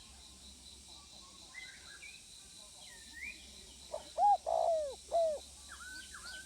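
Spotted dove cooing: one phrase of three low coo notes about four seconds in, the middle note the longest. Another bird chirps faintly with short rising whistles.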